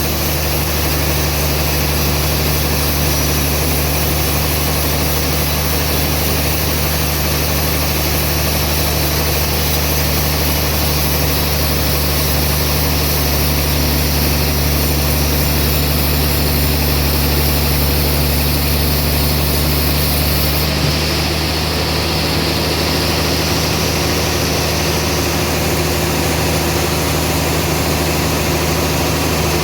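Band sawmill running steadily, its drive giving a low, even hum under a constant hiss.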